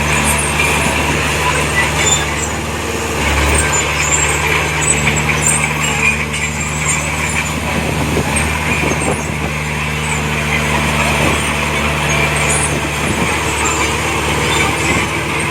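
Diesel engine of heavy earthmoving machinery running steadily under a constant low note, with scattered light metallic clinks over it. The engine note shifts briefly about three seconds in.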